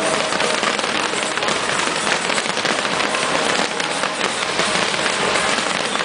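Fireworks crackling densely and without a break, a continuous mass of small cracks and pops.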